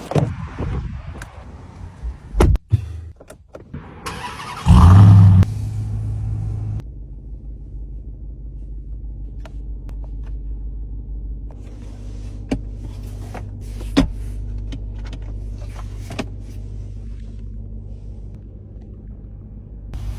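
A few clicks and knocks, then about four and a half seconds in the Ram 1500 TRX's supercharged 6.2-litre Hemi V8 starts with a loud flare. The flare holds for about two seconds before the engine settles to a steady idle, with scattered clicks over it, heard from inside the cabin.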